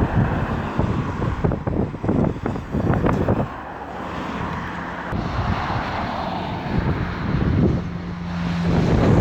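Wind buffeting the microphone, then the steady roar and hum of a Boeing 777-200ER's twin jet engines, growing louder near the end.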